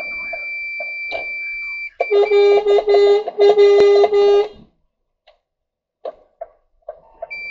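Fire engine's horn sounded hard in about three loud blasts, each a chord of several tones, in warning at a car pulling out ahead. Before and after the blasts a steady high-pitched electronic beep sounds in the cab.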